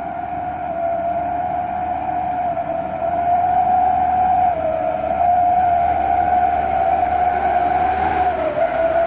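Coal-laden truck's engine labouring up a slippery muddy slope, with a steady high whine over the engine noise. It grows louder about a third of the way in and rises a little in pitch soon after.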